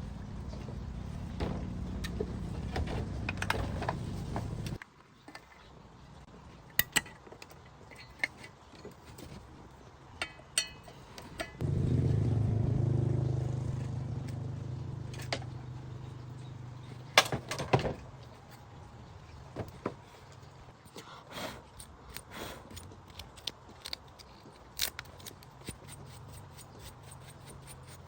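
A low motor hum that cuts off suddenly about five seconds in, then starts again sharply near the middle and slowly dies away, with scattered clicks and knocks of handling metal parts.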